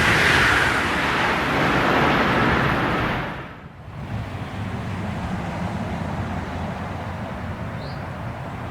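High-speed TGV train passing through the station at speed, a loud rush of wheel and air noise that fades over about three seconds. It drops away suddenly, leaving a steadier, quieter rumble.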